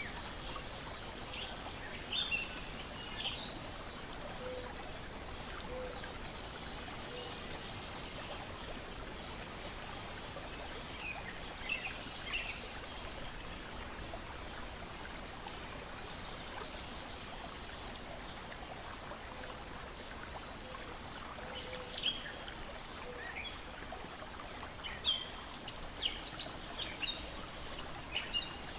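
Lake water lapping and splashing in a steady wash, with songbirds chirping in short bursts near the start, around the middle and more often near the end.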